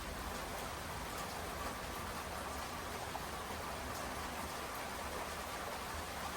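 Steady rainfall, an even hiss with faint scattered drops pattering.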